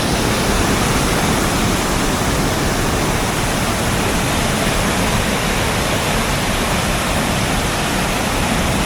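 Swollen floodwater rushing fast and steadily, an even unbroken wash of water noise.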